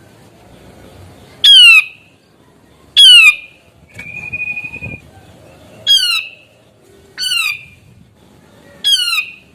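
Cucak jenggot (grey-cheeked bulbul) calling: five loud, harsh squawks that each slide down in pitch, about one every second and a half. Between the second and third squawks there is a steady held whistle lasting about a second.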